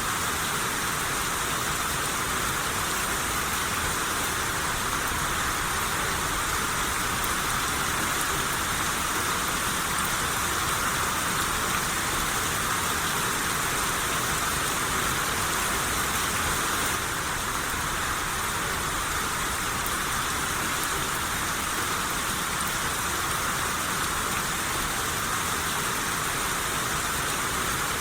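Steady rain shower falling, an even hiss of rain with a slight drop in level about two-thirds of the way through.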